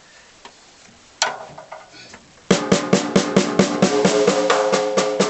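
1951 Slingerland Concert King 15x8 three-ply snare drum being struck: one hit about a second in, then from about halfway a steady run of about six strokes a second, the drum ringing between strokes.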